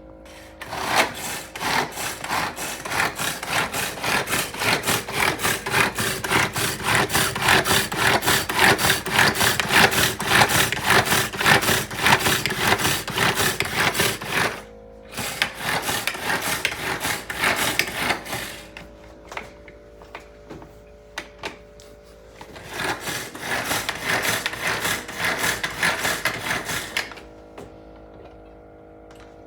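Electric food chopper whirring and rattling as it chops potatoes, in three runs: a long run, a brief stop, a second shorter run, then a pause of a few seconds and a third run.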